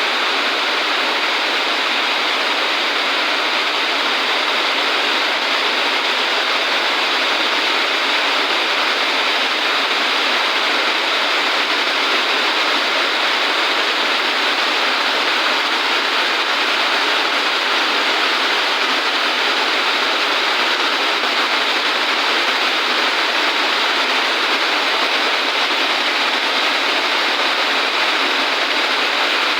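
Heavy rain falling: a dense, steady hiss with no change in strength.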